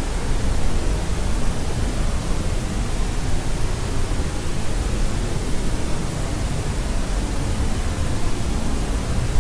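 Steady white noise: an even, unchanging hiss across the whole range, somewhat heavier in the low end.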